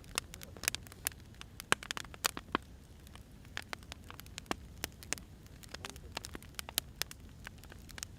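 Firewood burning, crackling with irregular sharp pops, several a second, over a low steady rumble.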